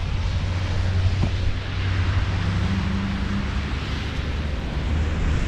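Steady wind rush and low rumble on the microphone while riding an electric unicycle at speed, with a faint hum briefly in the middle.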